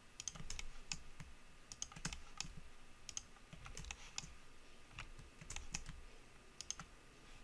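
Faint computer keyboard and mouse clicks, short taps at an irregular pace, as someone works at a computer.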